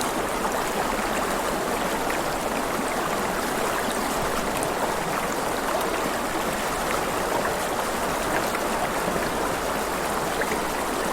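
River water flowing and babbling over stones, a steady, even rush of water.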